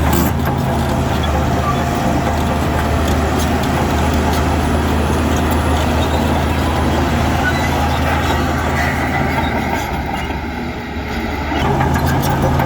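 Diesel engine of heavy earthmoving machinery running steadily under load, dropping away for a moment near the end before picking up again.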